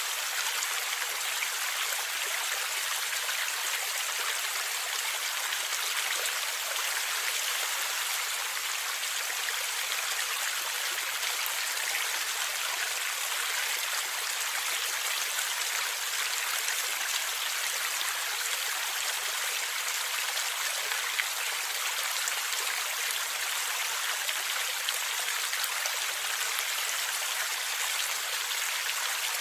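River water running and gurgling steadily. It makes a bright, even rush with no deep rumble, flecked with tiny splashes.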